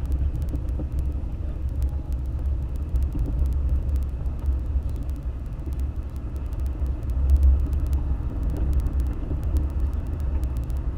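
Toyota FJ Cruiser's 4.0-litre V6 and tyres giving a steady low rumble while driving, swelling briefly about two-thirds of the way in. Many faint sharp ticks run over it.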